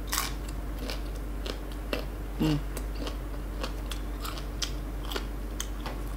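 Close-miked chewing of crisp unripe fruit, a run of short, sharp, irregular crunches. A brief hum about two and a half seconds in.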